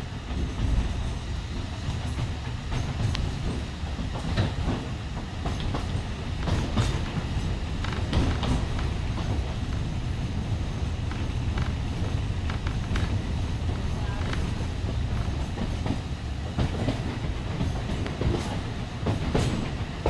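Alishan Forest Railway passenger carriage running along the track: a steady low rumble with scattered, irregular clicks and knocks from the wheels and rails.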